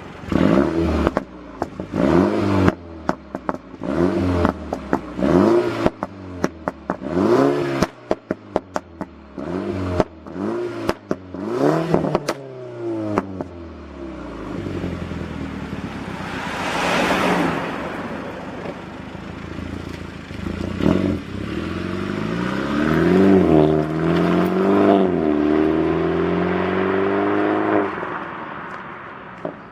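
Mini Cooper S Clubman's turbocharged four-cylinder through a tuned exhaust, blipped about a dozen times in quick succession, with crackles and pops as the revs drop after each blip. A longer rushing swell follows, then the revs climb and hold for several seconds before cutting off near the end.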